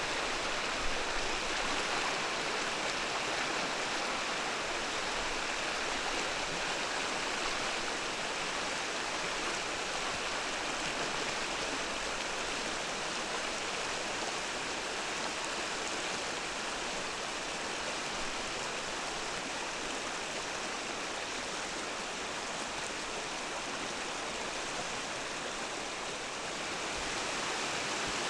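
Mountain stream water running steadily over rocks in an even, continuous rush.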